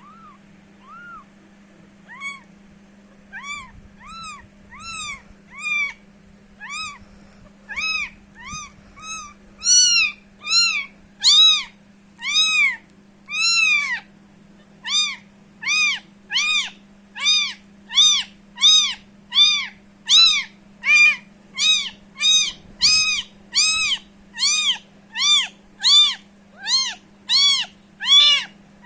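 Thirteen-day-old kitten mewing over and over, high thin calls that each rise and fall in pitch. They start faint and sparse, grow louder from about ten seconds in, and come about twice a second toward the end.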